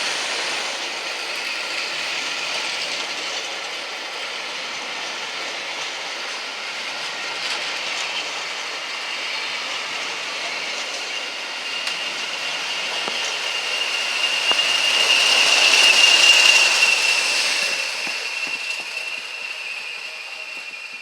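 A train running past on the rails, with a high steady whine over the running noise. It grows louder to a peak about three-quarters of the way through, then fades as it goes by.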